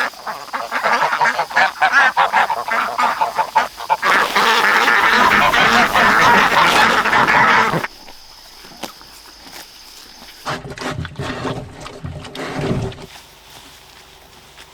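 A flock of geese and ducks honking and quacking loudly, a dense clamour that cuts off abruptly about eight seconds in. After that it is much quieter, with some low rumbling for a couple of seconds.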